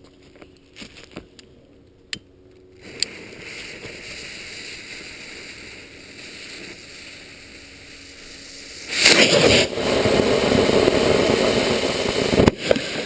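A lit firework fuse hissing, then the firework going off with a loud rushing hiss for about three and a half seconds, ending in a sharp crack.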